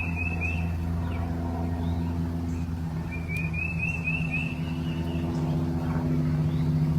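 Steady low hum with a rapid, high chirping trill at the start and again about three seconds in.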